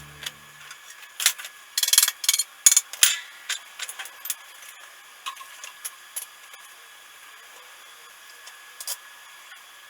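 Workshop hand-work sounds: a quick run of short scrapes and clicks in the first three seconds, then scattered light ticks.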